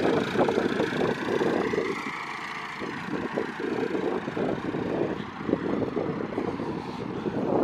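Tractor engine running as it tows a caravan out of mud.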